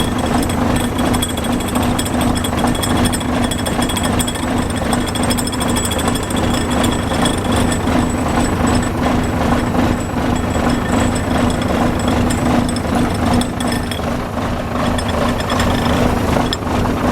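Renault Major truck's diesel engine idling steadily with an even, rapid clatter, running after its injectors were repaired.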